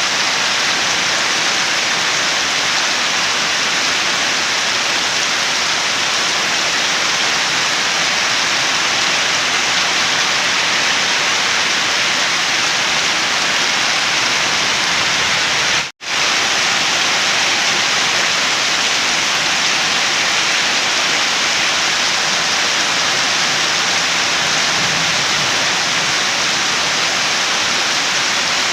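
Steady, dense rainfall as a continuous hiss of falling water. It drops out for an instant about halfway through, then resumes unchanged.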